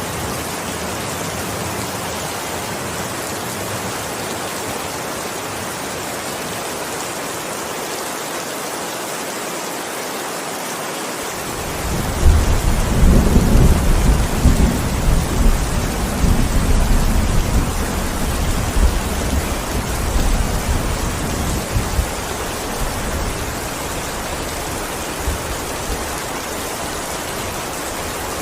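Steady heavy rain. About twelve seconds in, a rolling thunder rumble sets in suddenly and dies away over about ten seconds.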